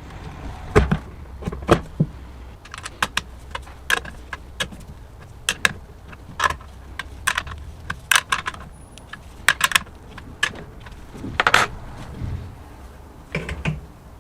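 Irregular metallic clinks and knocks of tools and small metal parts being handled on a workbench, some with a short ring, the loudest about a second in and again near the middle of the last third.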